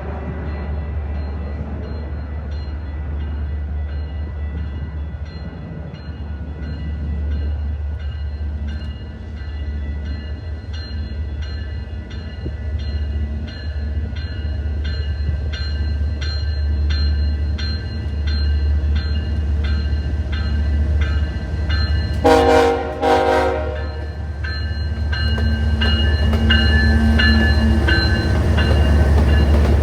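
Train passing close by: a steady low rumble with an even rhythm of wheel clicks over the rail joints. About 22 seconds in, the locomotive horn sounds two short blasts, the loudest sound here.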